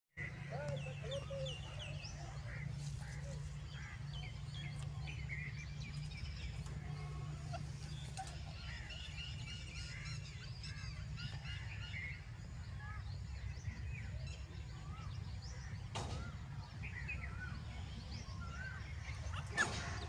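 Birds chirping and making short whistled calls, scattered throughout, over a steady low rumble, with a sharp click about two-thirds of the way in and another near the end.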